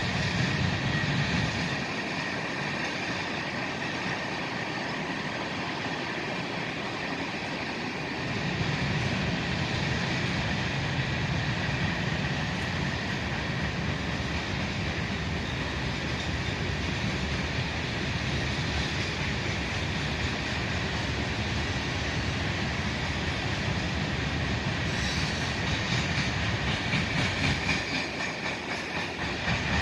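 Freight train rolling past, a steady rumble of wheels on rail with a faint high squeal. Near the end the clacking of the wheels comes through as a regular rhythm.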